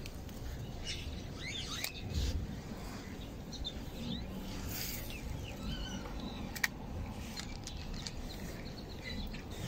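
Small birds chirping in short, scattered calls, over a steady low rumble, with two sharp clicks: one about two seconds in, one past the middle.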